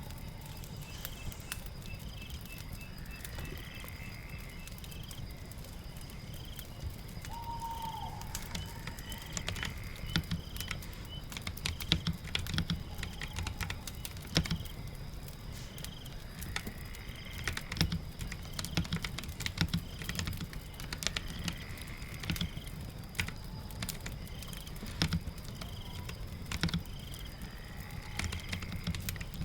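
Computer keyboard typing in irregular runs of clicks, growing busier after the first several seconds, over a steady rain-like hiss. Short chirping calls recur every few seconds, with a quick trill at the start.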